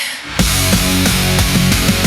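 Heavy rock music: after a brief dip, distorted guitars and a drum kit come in loudly about half a second in and play on with fast drumming.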